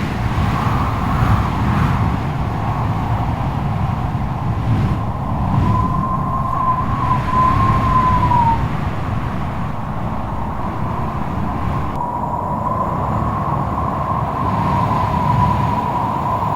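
Strong wind blowing hard: a steady deep rumble with a high, wavering whistling howl that comes in about six seconds in, fades, and returns from about twelve seconds on.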